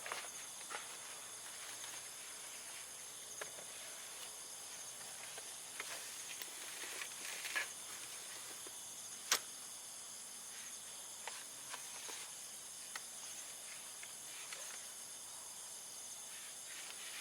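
Steady high-pitched chorus of night insects, with a few faint clicks and one sharper tap about nine seconds in.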